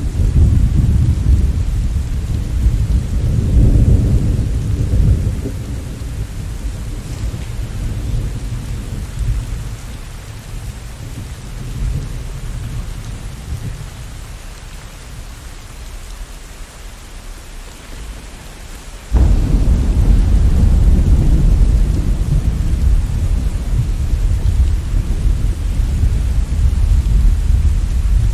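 Steady rain with rolling thunder. A deep rumble swells in the first few seconds and slowly dies away, then a new loud rumble starts abruptly about two-thirds of the way in and carries on.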